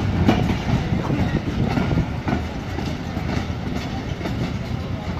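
Passenger coaches of a departing express train rolling past on the rails, wheels clacking over the rail joints. The sound eases off slightly a couple of seconds in as the last coach pulls away. People's voices from the crowd on the platform are mixed in.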